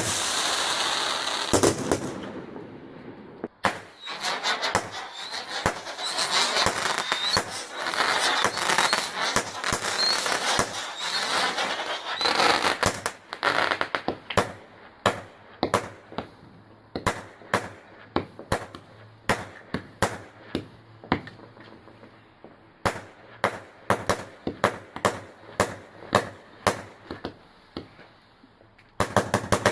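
Fireworks going off: about thirteen seconds of dense crackling laced with short whistles, then a long run of separate sharp bangs, one or two a second.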